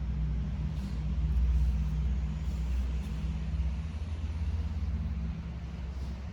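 A motor vehicle's engine running, a steady low rumble that is loudest about a second and a half in and then eases off.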